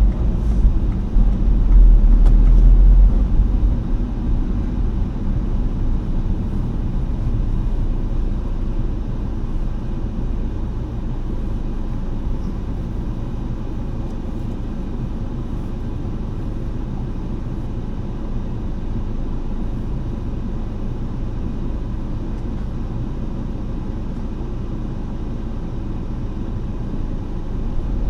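A car driving, with a steady low rumble of road and engine noise. It is heavier for the first three seconds or so, then settles to an even drone.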